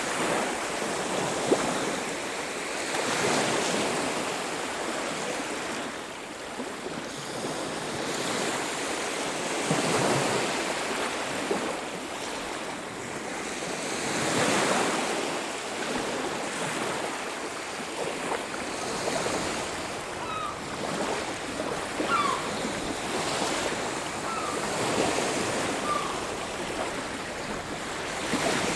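Ocean surf breaking on a beach, a steady wash of water that swells and fades every few seconds. A few faint short bird calls come in over it in the second half.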